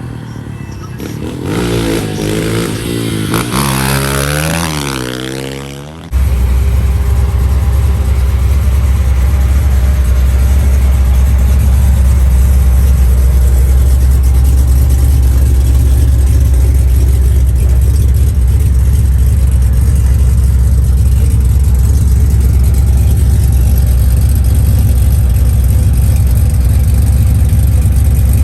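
Loud vehicle engine: for the first few seconds it revs with rising and falling pitch, then about six seconds in it gives way suddenly to a loud, steady low rumble that runs on unchanged.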